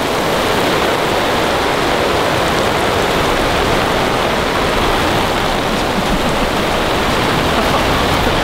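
Torrential rain pouring down on a camping tarp, a loud, dense and unbroken rush of water.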